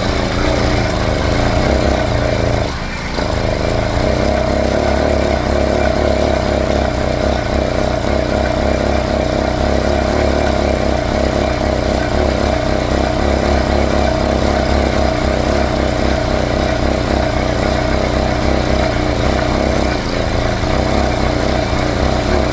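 80cc two-stroke motorized-bicycle engine turning steadily with the throttle open, spun by the rear wheel on a bicycle trainer to use up the old fuel left in the carburetor. The sound dips briefly about three seconds in.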